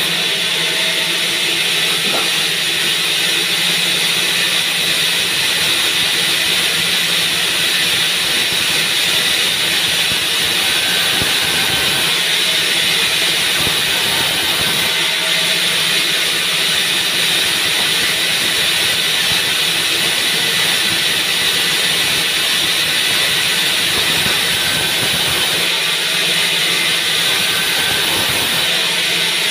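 Sawmill band saw running with a steady, even hissing noise that holds without a break.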